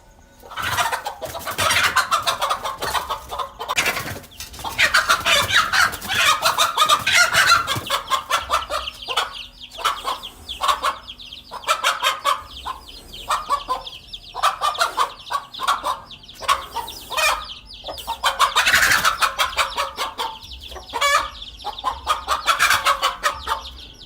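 Mother hen clucking loudly in rapid, repeated bursts: the agitated alarm calls of a hen defending her chicks from a king cobra.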